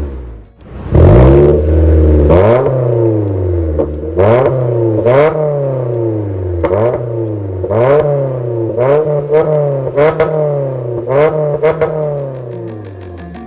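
Toyota Corolla Sport's 2.0-litre M20A-FKS inline-four revved through an MS-R valved cat-back exhaust. About a second in a sharp rev follows a brief lull, then comes a string of quick throttle blips, each note rising fast and falling back, before the sound fades near the end.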